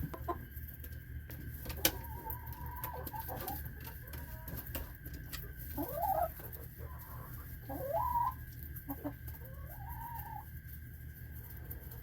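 Hens clucking and calling, with a few drawn-out rising calls spaced a couple of seconds apart, over a steady low hum.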